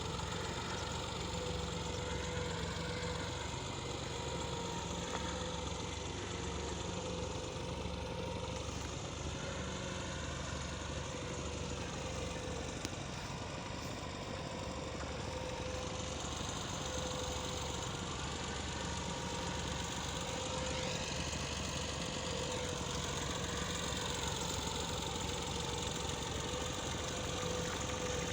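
Massey Ferguson tractor engine running steadily, with no change in speed.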